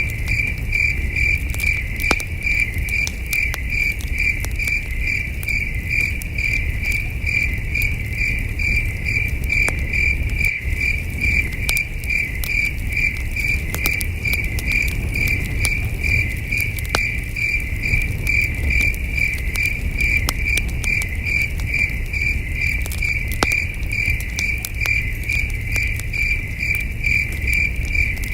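Crickets chirping in a steady, even rhythm, with the sharp pops and crackles of a campfire scattered through and a low steady rumble beneath.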